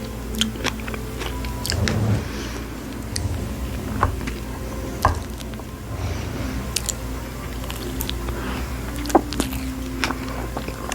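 Close-miked chewing and biting of fresh strawberries, with short wet mouth clicks and smacks scattered irregularly throughout.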